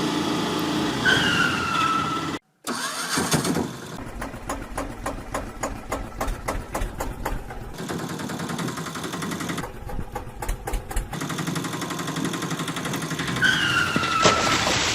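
Vehicle engine sound running, with a short silent cut about two and a half seconds in and a fast, even clatter of ticks through the middle. A short falling tone sounds twice, about a second in and again near the end.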